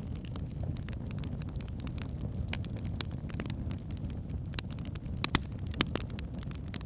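Wood fire burning in a fireplace: a steady low rumble of the flames with scattered sharp crackles and pops from the logs, two louder pops a little past the five-second mark.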